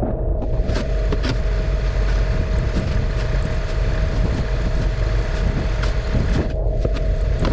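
An engine running steadily, with a constant hum over a low rumble.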